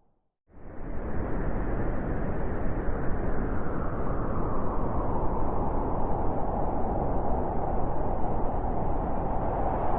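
Blizzard wind howling: a steady, loud rush of noise with a howling tone that sinks slowly in pitch, coming in suddenly after a brief silence at the start.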